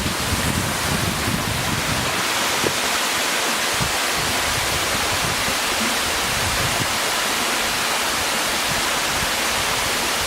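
The Cascades waterfall, water rushing and splashing in a steady roar. Wind buffets the microphone for the first two seconds or so.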